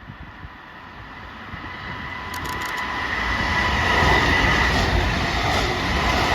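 A train approaching and passing close by, growing steadily louder to a peak about four seconds in, with a steady high whine over the rail and wheel noise. A few sharp clicks come about two and a half seconds in.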